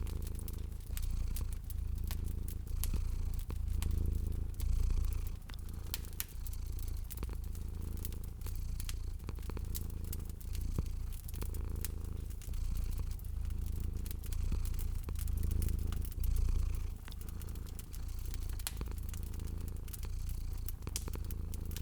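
Cat purring, a steady low rumble that swells and fades about every two seconds with its breathing, over a wood fire crackling with frequent small sharp pops.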